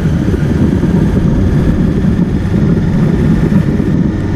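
Motorcycle engine running steadily at riding speed, with road and wind noise.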